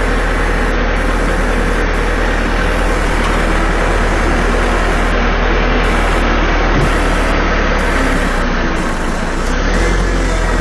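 Tractor engine running steadily under load while the tractor climbs a slope.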